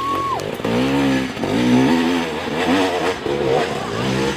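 Enduro motorcycle engine revving, its pitch rising and falling over and over as the throttle is worked.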